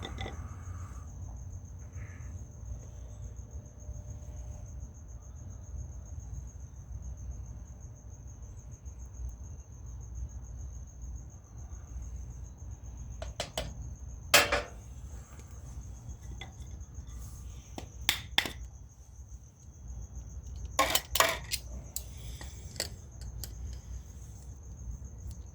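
Lead-ball casting at a mold: a few clusters of sharp metallic knocks and clinks, the loudest about halfway through, as the mold is tapped with a mallet and worked. Underneath runs a steady low rumble and a constant thin high tone.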